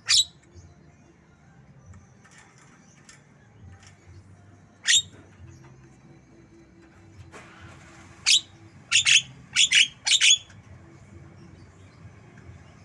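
Javan myna (jalak kebo) giving loud, sharp, short whistled calls in imitation of a white-rumped shama's song: one near the start, another about five seconds in, then a quick run of about six close together a little past the middle.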